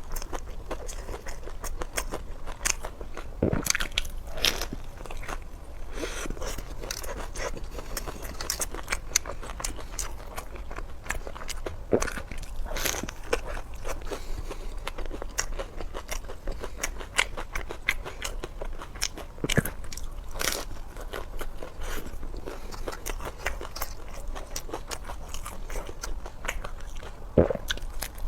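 A person eating crunchy food close to the microphone: irregular crisp bites and crunching chews, with a few louder crunches scattered through.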